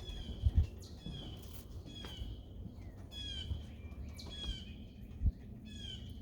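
Birds squawking at each other: a series of calls repeated about once a second, with a couple of low thumps underneath, the loudest about five seconds in.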